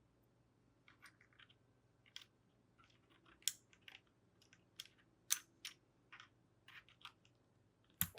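Irregular sharp plastic clicks from a mechanical keyboard, about fifteen of them, starting about a second in, as keycaps and keys are pressed.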